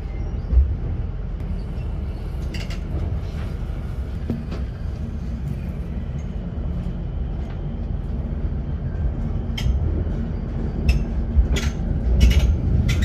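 A passenger train in motion, heard from inside the carriage: a steady low rumble with a faint hum. Sharp clicks and knocks come now and then, more of them near the end.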